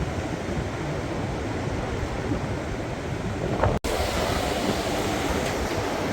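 Storm-force wind rushing steadily and buffeting the microphone. The sound cuts out for an instant just under four seconds in.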